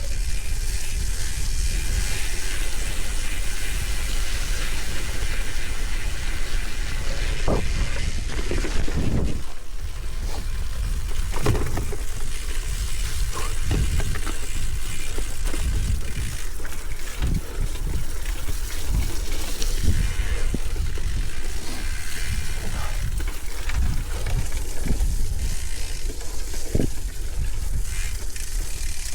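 Gravel bike riding, heard from a camera on the bike or rider: tyres hissing over a gravel track with wind rumbling on the microphone. Short knocks and rattles come every few seconds as the bike goes over bumps.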